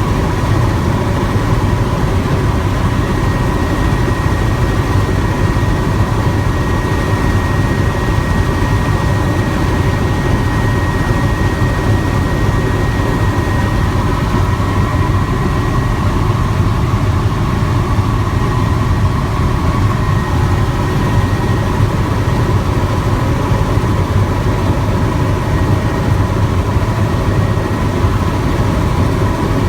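Helicopter in flight, heard from aboard: a steady low drone of rotor and engine with a constant high whine above it.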